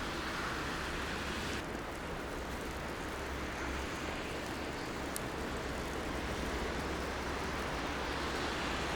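Steady downtown street ambience in snowy weather: traffic rumble and a wash of hiss. The higher hiss eases slightly a couple of seconds in, and there is a faint click near the middle.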